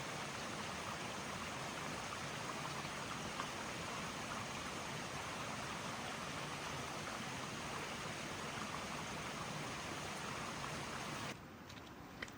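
Steady, even rush of running water. It cuts off abruptly about eleven seconds in, leaving a quieter background with a few faint clicks.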